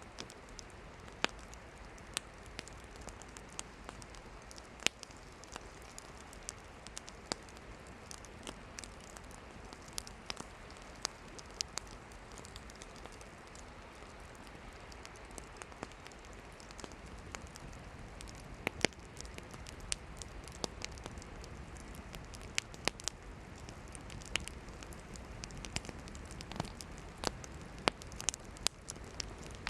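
Campfire of burning firewood crackling, with irregular sharp pops and snaps over a soft steady hiss of the flames.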